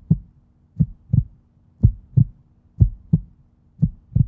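Heartbeat: paired lub-dub thumps repeating steadily, about one pair a second, over a faint steady hum.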